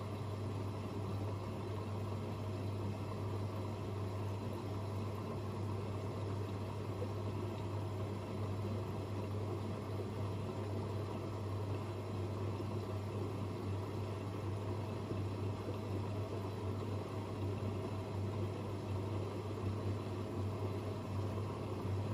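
Two front-loading washing machines, an AEG Öko-Lavamat 88840 and a Miele Novotronic W 985 WPS, running mid-wash on their easy-care programs: a steady, even hum with a strong low tone.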